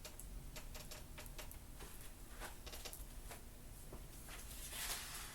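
Faint handling noise: scattered light clicks and rustles, with a brief soft hiss near the end.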